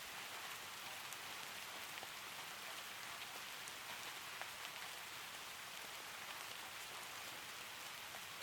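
Steady rain falling, a soft even hiss with scattered faint ticks.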